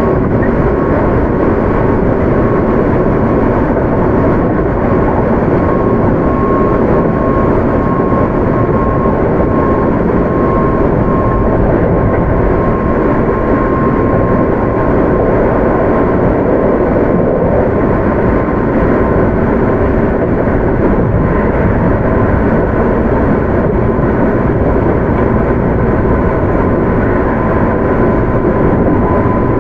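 Keio 8000 series electric train running between stations, heard from inside the car: a steady, loud rumble of wheels on rail with a faint steady whine above it.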